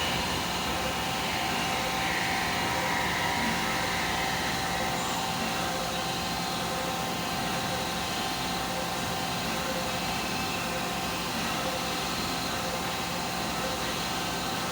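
Five-axis CNC machine running, a steady mechanical whir with several steady tones held throughout.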